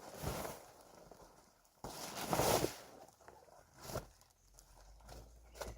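Plastic pond liner rustling and crinkling as it is pulled and unfolded by hand, in four separate bursts of about half a second, the loudest a little after two seconds in.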